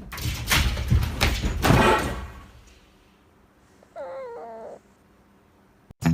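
Scuffling and bumping noises for the first two seconds or so, then a single short wavering cry from a pet, a dog or cat, about four seconds in.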